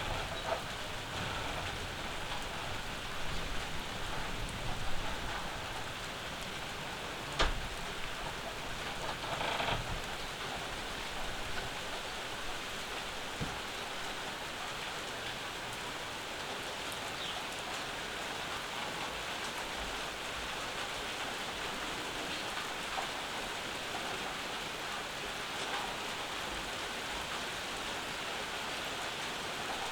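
Steady summer rain falling on a porch and yard, with a couple of sharp louder taps about seven and ten seconds in.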